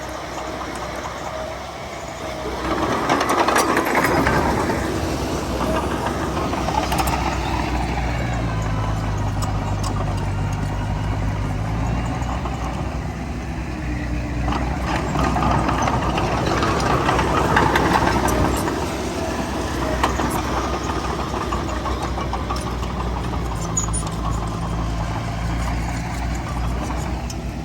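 Heavy diesel engines of earthmoving machinery running, getting louder about three seconds in and again around sixteen to eighteen seconds in as the engine works harder.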